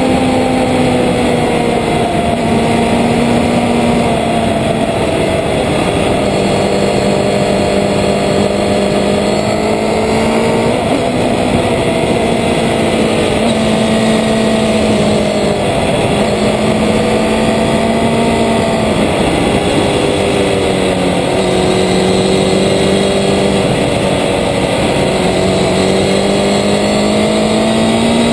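Road-racing motorcycle engine running hard on track, its note falling and rising several times with throttle and gear changes, under steady wind and road rush on a low-mounted camera.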